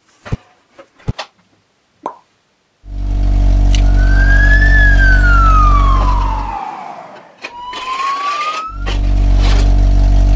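A few short clicks, then a loud low engine hum cuts in about three seconds in. Over the hum a siren tone rises briefly and then falls in one long slow glide. After a short break a siren tone rises again and the engine hum comes back near the end.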